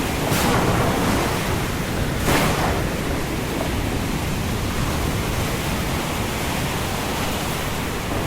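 Storm wind rushing steadily, with two brief louder swells, about half a second and two seconds in.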